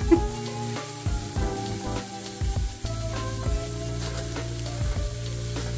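Diced shallots and sliced mushrooms sizzling in oil in a frying pan, with a spoon stirring and scraping through them every so often.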